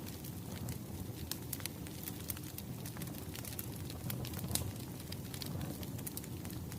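Wood fire crackling: burning logs give a steady low rumble with frequent sharp pops and snaps.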